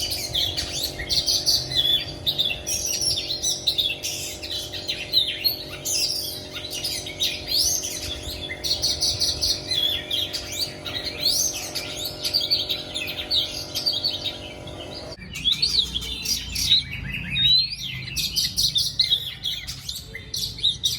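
Pet songbirds singing: a continuous run of varied whistles and quick chirps. A steady low hum underneath cuts off suddenly about fifteen seconds in.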